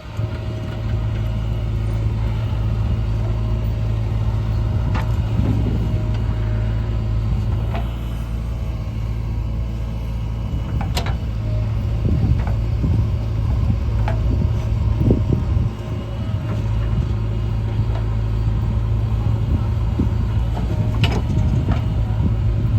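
Diesel engine of a JCB 3DX backhoe loader running steadily at work, with a few sharp metallic clanks.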